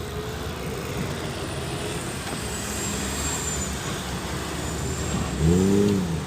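Steady road traffic rumble from passing cars, with a faint high whistle in the middle and a short, loud pitched sound that rises and falls, about five and a half seconds in.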